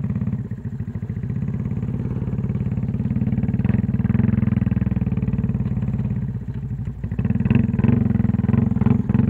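Honda XRM fi underbone motorcycle with a 62 mm big-bore kit, its single-cylinder four-stroke engine running under throttle on a rough dirt track. The engine builds up over the first few seconds, eases off about six seconds in, then pulls again, with a few rattles from the bumps.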